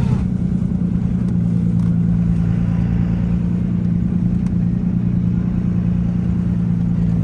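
Motor vehicle engine running steadily, a low even drone with road noise and no change in speed.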